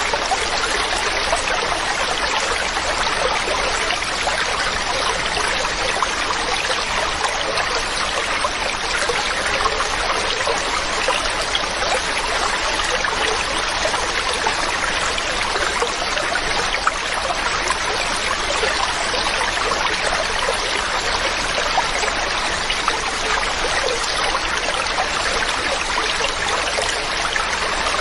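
Mountain stream running steadily over rocks, a continuous rushing babble with small splashes throughout.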